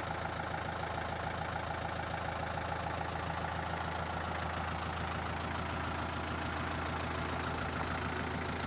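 Mitsubishi Rosa bus's 4D33 four-cylinder diesel engine idling steadily.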